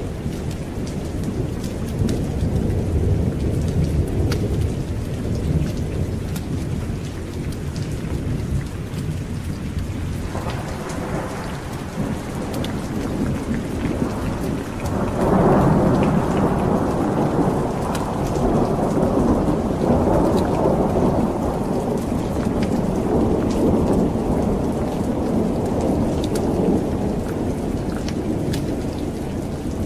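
Steady rain with rolling thunder. A deep, low rumble fills the first third, then a louder, brighter roll of thunder builds from about ten seconds in and peaks around fifteen seconds. Faint scattered ticks sit over the rain hiss.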